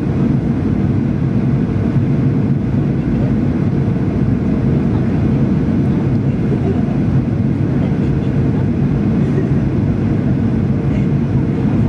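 Steady cabin noise of a Boeing 737-800 jet airliner on final approach: an even low roar of engines and airflow with a constant hum running through it.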